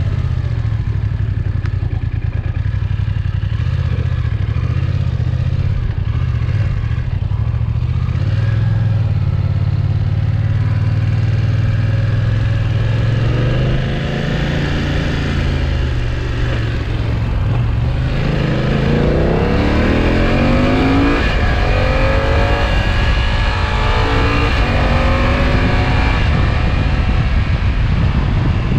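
BMW F900XR's parallel-twin engine and exhaust heard from onboard while riding: it runs at a steady engine speed for about the first half, then revs climb sharply under acceleration a little past halfway, and it keeps running at higher revs to the end.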